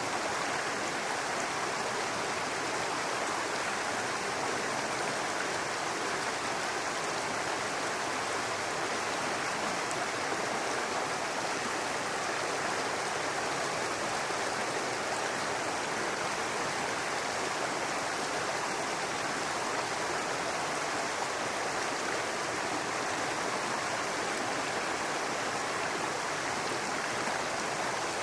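Brook babbling and rushing over rocks, a steady even flow of water.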